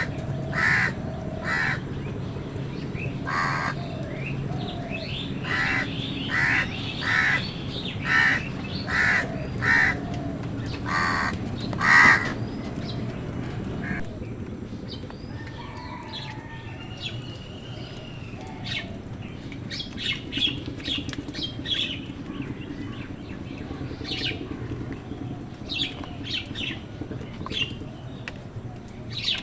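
Crows cawing again and again, about a dozen harsh calls, the loudest about twelve seconds in. Then the cawing stops and quick, high chirps of smaller birds follow.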